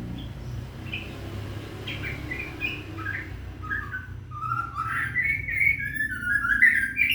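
Caged scarlet minivet (sepah raja) singing: scattered high chirps that build in the second half into a loud, fast run of warbling notes, stopping abruptly at the end. A steady low hum runs underneath.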